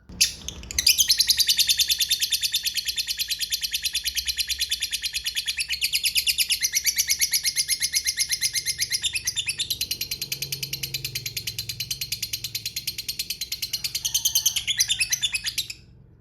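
Lovebird giving a long 'ngekek': one unbroken run of rapid, sharp, high chirps, many per second, lasting about fifteen seconds before stopping abruptly. This is the long cackling chatter that Indonesian lovebird keepers prize.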